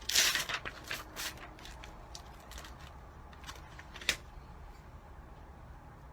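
Paper and cardstock being handled: a rustle at the start, then scattered light taps and a sharp click about four seconds in.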